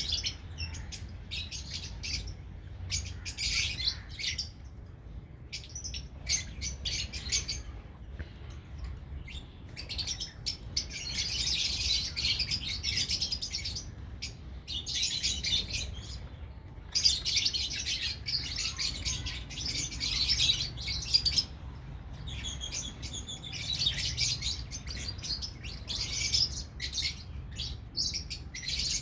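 A flock of lovebirds chirping and chattering in rapid high-pitched bursts, coming thickest in several spells of a few seconds each, over a faint steady low rumble.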